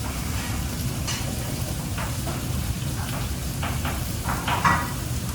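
Busy kitchen: a steady sizzling hiss of food frying over a low rumble, with a few short clatters of pans or utensils, the loudest a little before the end.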